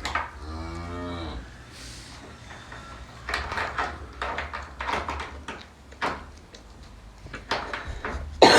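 A bovine moo, one low call lasting just over a second, followed by a scatter of short knocks and clatters and a loud, short sound right at the end.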